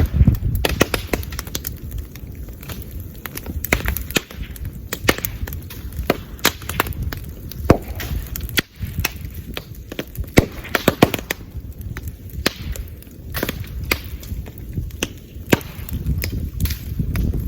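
Bamboo bonfire burning: dense irregular crackling with sharp pops and several loud snaps as bamboo stems burst in the heat, over a steady low rumble.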